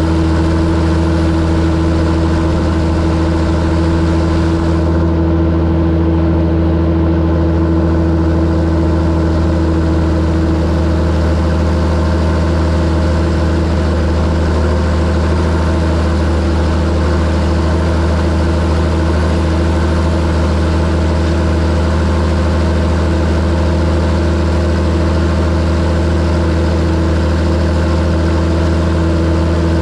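John Deere 7730 tractor's six-cylinder diesel engine running steadily at a constant speed, a deep even hum with no change in revs.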